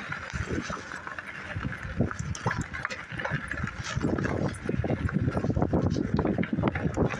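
Shirt fabric rubbing and bumping against a phone microphone carried in a shirt pocket while riding a bike, giving irregular knocks and rustling, heavier after about four seconds, over a steady wind-like hiss.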